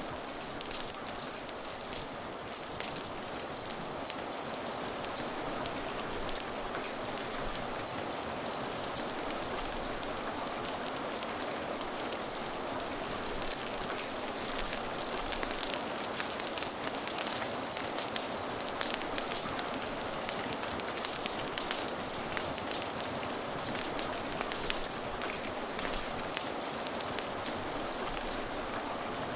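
Steady rain falling, a constant hiss dotted with many small sharp ticks and pops, mixed with a crackling fire.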